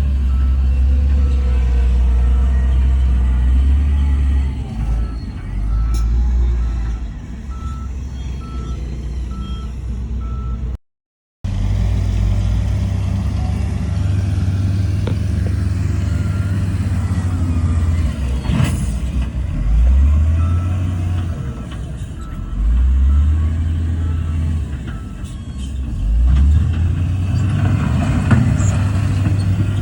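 Heavy diesel earthmoving machinery working: a deep engine note that revs up several times in the second half, with a reversing alarm beeping at an even pace for the first ten seconds and again briefly later. The sound cuts out for about half a second just before the middle.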